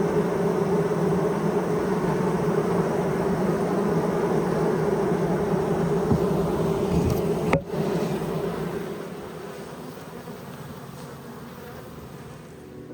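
Honeybee colony humming inside the hive: a steady, even buzz. A single sharp knock comes about seven and a half seconds in, and the hum then fades to a quieter level.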